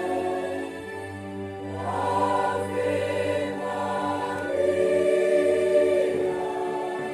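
Church choir singing a hymn in long held chords, moving to a new chord every couple of seconds.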